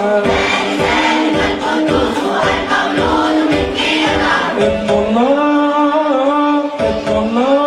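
Church choir singing an Arabic Christmas hymn medley, voices holding and gliding between notes over a steady beat.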